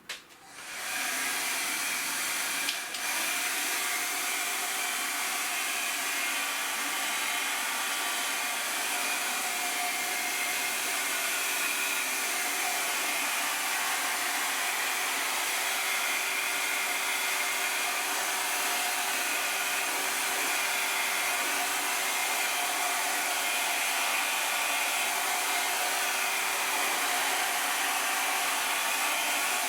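Hot-air gun blowing steadily, warming a vinyl wheel sticker. It switches on about half a second in, comes up to full speed within a second, and then runs on as an even rush of air with a faint steady motor whine.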